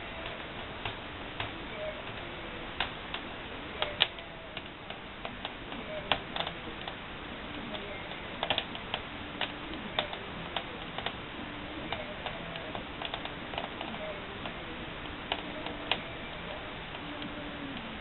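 Wood fire crackling in a brick barbecue-fireplace: irregular sharp pops and clicks over a steady hiss, a few louder cracks among them.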